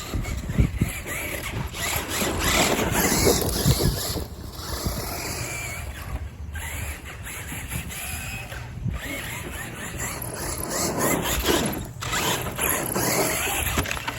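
Losi LMT 1/8-scale RC monster truck running on a track: its electric motor whines up and down in pitch with the throttle over a rough, rushing noise. The sound drops out briefly several times.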